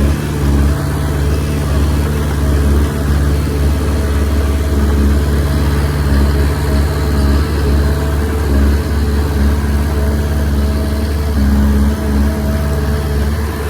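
Komatsu D20P bulldozer's diesel engine running steadily, its note rising and dipping a little.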